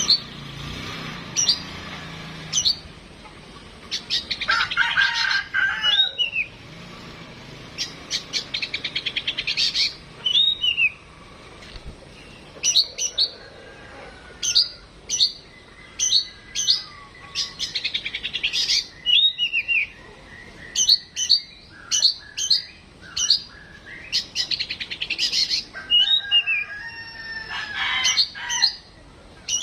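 Oriental magpie-robin (kacer) singing: a rapid string of sharp chirps mixed with fast rattling trills and short whistled, sliding phrases.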